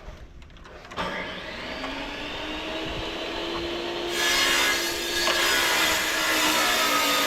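A power tool's motor starts about a second in and runs steadily. About four seconds in, a loud, rough cutting or grinding noise joins it as the tool bites into the work.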